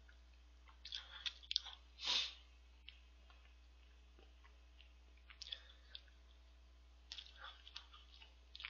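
A person chewing a mouthful of custard-cream cake close to the microphone: short clusters of wet mouth clicks with pauses between, and one louder rush of noise about two seconds in.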